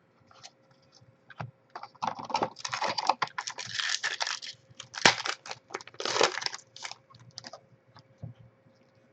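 Trading cards handled and flipped through by hand: irregular clicks, slaps and short rustles of card stock against card stock, busiest in the middle and tailing off near the end.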